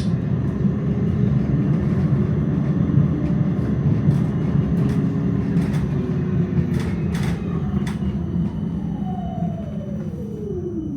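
Melbourne tram running along the track with a steady low rumble and scattered clicks from the wheels and rails. Over the last few seconds a whine falls steadily in pitch as the tram slows for its next stop.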